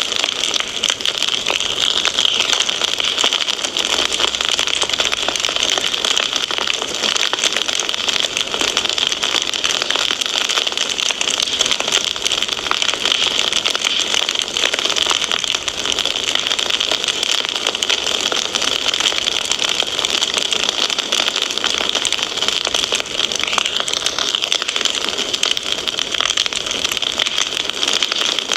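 Wood fire crackling steadily: a dense, unbroken run of small pops over a constant hiss.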